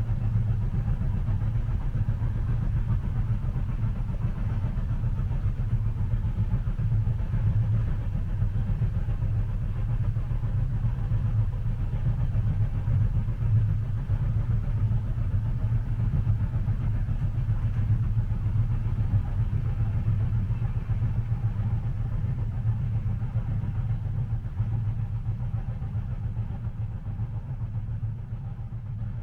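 Steady low rumble of a train heard from inside a passenger carriage, fading out over the last few seconds.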